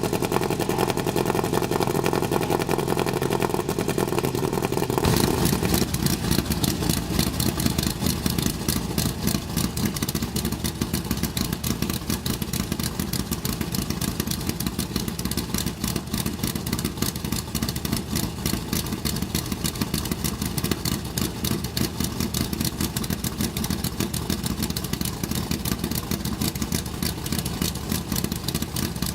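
Antique race car engine running loudly. About five seconds in, the sound changes abruptly to a rough, rapid pulsing of the exhaust.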